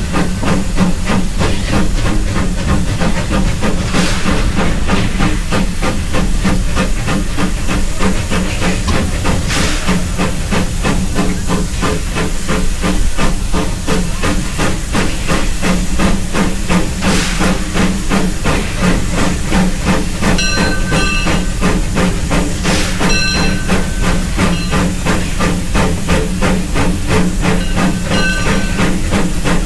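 Steam locomotive working under way, close up: a steady hiss of steam over a fast, even beat of exhaust chuffs. In the last third, short high ringing tones come and go several times.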